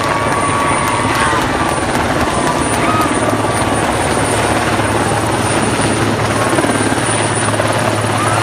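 Helicopter running steadily, a loud continuous rotor and engine noise with a low hum underneath.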